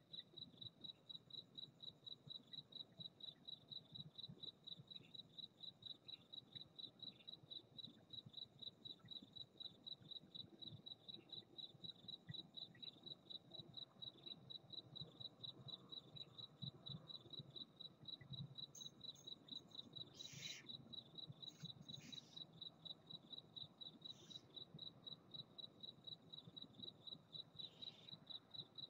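A cricket chirping steadily, a fast, even run of high chirps at about three a second. A few brief hissing noises cut in, the loudest about two-thirds of the way through.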